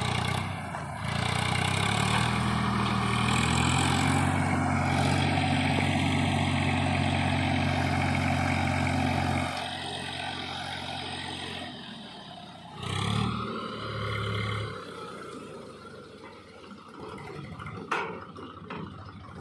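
JCB 3DX backhoe loader's diesel engine revving up about two seconds in and held at high revs, dropping back after about nine and a half seconds. It revs briefly twice more, then settles to a lower, quieter run.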